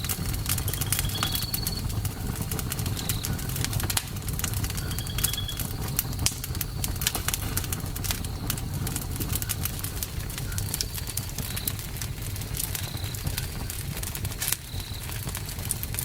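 Campfire burning, wood crackling and popping in frequent sharp snaps over a low steady rumble of the flames. Short high chirps repeat every second or so behind it.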